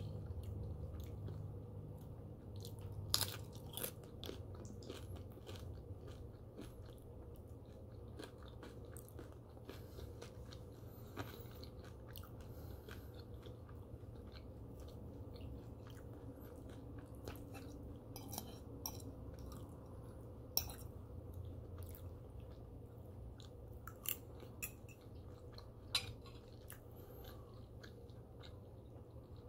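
A person chewing a breakfast of turkey bacon, French toast and eggs close to the microphone: soft steady chewing with scattered sharp crunches and mouth clicks.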